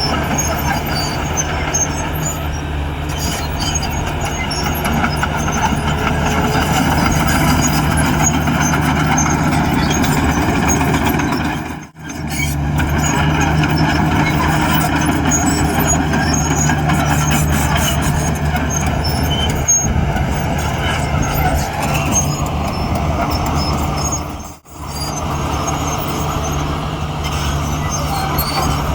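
Heavy diesel earthmoving machinery engine running steadily under load, with a deep, even engine tone. The sound cuts out briefly twice, about halfway through and again near the end.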